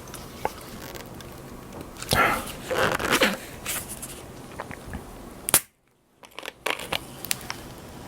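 Close-miked eating sounds: crunchy bites and chewing in a cluster about two to three seconds in, with scattered small clicks. A sharp click about five and a half seconds in is the loudest moment, followed by a brief dead-silent gap.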